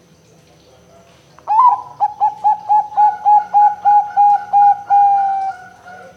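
Zebra dove (perkutut) cooing: a quick, even run of short coos starting about one and a half seconds in, ending in one longer drawn-out coo.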